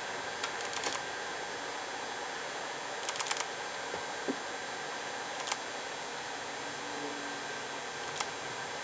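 Steady background hiss with scattered light clicks and taps, the sharpest about four seconds in.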